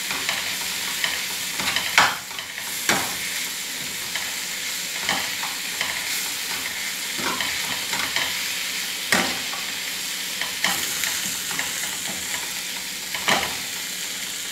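Masala-coated chicken pieces and onion sizzling as they fry in a pan, stirred through with a utensil that clacks and scrapes against the pan now and then.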